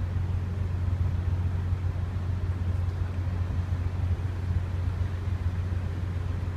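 A ferry's engines running with a steady low drone, with a faint even rush of noise above it.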